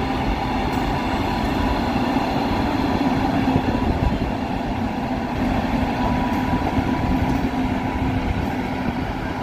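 Indian Railways electric locomotive hauling a passenger train slowly past: a steady rumble of wheels on the rails with a constant hum from the locomotive.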